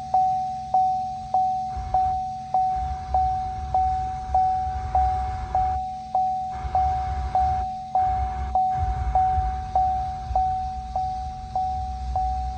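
A pickup's electronic warning chime dinging over and over, one mid-pitched ding with a quick fade repeating a little under twice a second, over a low rumble.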